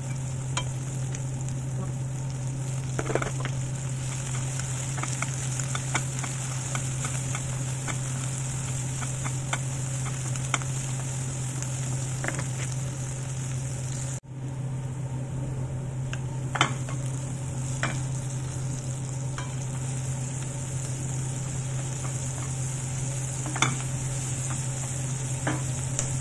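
Onions, garlic and tomato sizzling as they fry in oil in a pan, with scattered clicks and scrapes of a spoon stirring against the pan and a steady low hum underneath. The sound drops out for a moment about halfway through.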